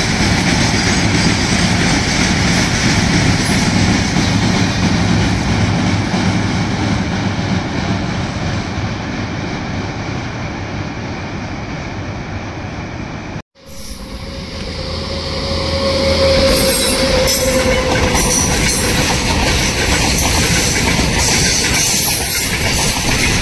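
Freight train wagons rolling over a steel truss railway bridge, a steady rumble that slowly fades. After a sudden break about halfway through, a freight train of box wagons runs past close by, its wheels rumbling and clattering on the rails and growing louder.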